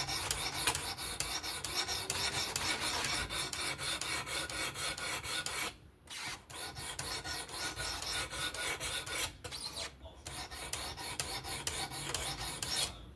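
Knife blade being stroked back and forth against a coarse 240-grit abrasive on a fixed-angle sharpener: a quick rasping rhythm with the blade pressed onto the stone. It pauses briefly twice, about six and ten seconds in.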